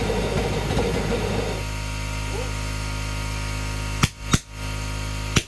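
Propane-air combustion chamber burning with a rough roar that cuts off about a second and a half in, leaving a steady hum. Near the end come two sharp pops from the combustion chamber, ignition detonations.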